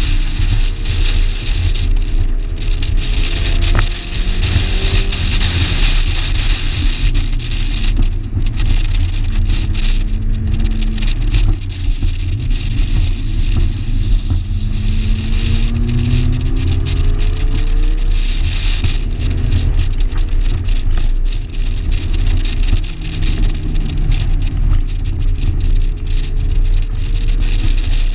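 Shelby GLHS's turbocharged 2.2-litre four-cylinder engine running hard at speed, its pitch repeatedly climbing under acceleration and dropping off again, over a heavy low rumble.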